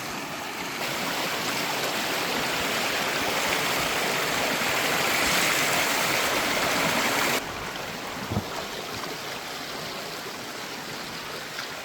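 Flowing river water rushing over rocks, a steady hiss. It grows louder over the first few seconds, then drops suddenly about seven seconds in, with a faint knock soon after.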